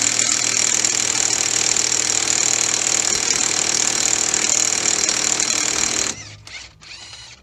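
Battery-powered impact wrench hammering hard on a tight crankshaft pulley bolt for about six seconds, then stopping; a few quieter clicks follow.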